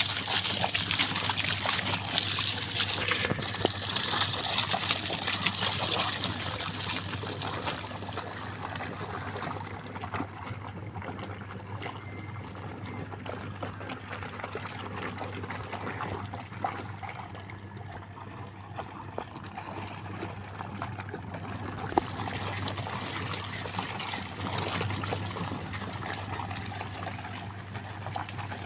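Washing machine running with water splashing and sloshing inside the drum over a steady low hum. The water noise is louder for the first several seconds, then settles lower.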